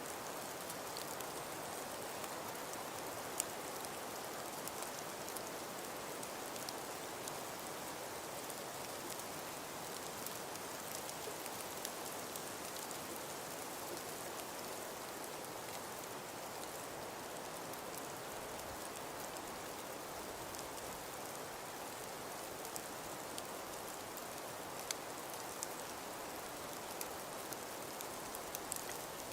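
Steady snowstorm ambience: wind with falling snow, an even hiss with faint ticks scattered through it.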